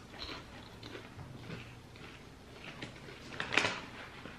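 Quiet crunching of puffed popcorn being chewed, with scattered small crackles and a louder crackle about three and a half seconds in.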